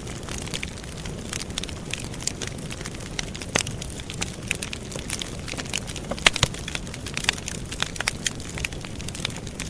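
Wood campfire burning: frequent sharp crackles and pops over a low, steady rush of flame, with louder pops about three and a half and six seconds in.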